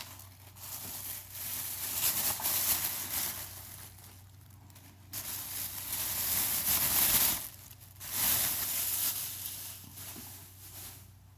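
Plastic shopping bag rustling and crinkling as items are handled, in three long spells with short quieter gaps between them.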